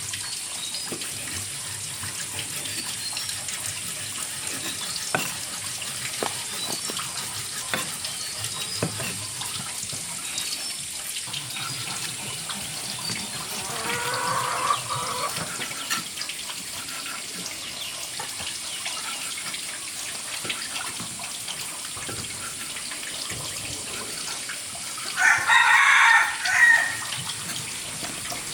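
A rooster crowing loudly near the end, with a shorter, softer call about halfway through, over a steady rushing like running water and a few faint clicks.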